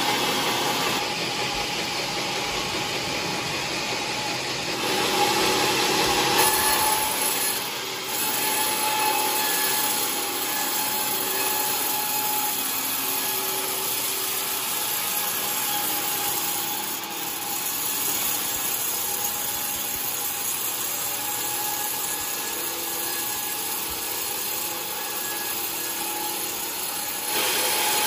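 Sawmill saw cutting through a coconut log: a steady, dense sawing noise with a faint whine. It grows louder for a couple of seconds about five seconds in, and again near the end.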